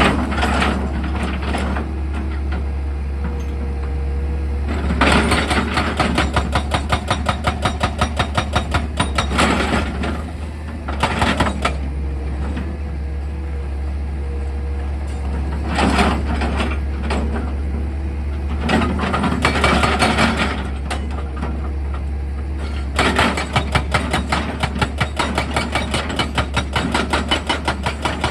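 Excavator with a hydraulic percussion drill attachment. The engine hums steadily and low, and the drill hammers in several bursts of rapid, evenly spaced blows, the longest near the end.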